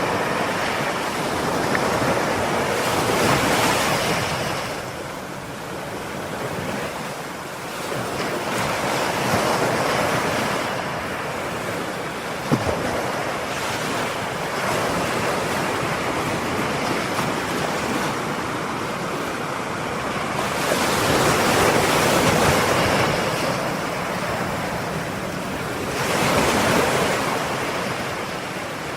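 Ocean waves breaking and washing on the shore, swelling and receding every few seconds, with a couple of bigger surges near the end.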